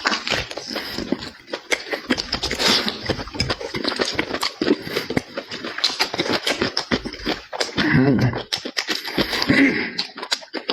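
Close-miked chewing and lip-smacking of food: a fast, irregular run of wet mouth clicks, with a couple of short voiced mouth sounds about eight and nine and a half seconds in.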